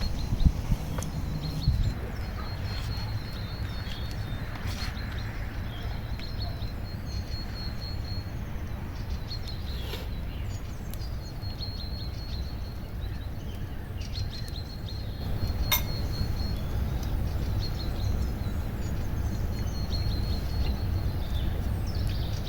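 Outdoor ambience: a small bird repeats runs of short, high trilling notes at one pitch over a steady low rumble, with a few knocks in the first two seconds and a couple of sharp clicks later.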